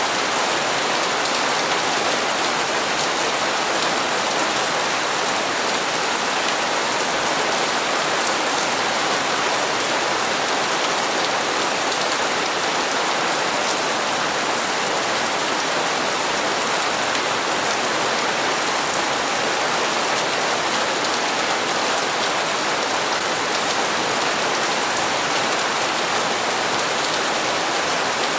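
Steady rain falling on hard surfaces, an even hiss of many drops without pause or change.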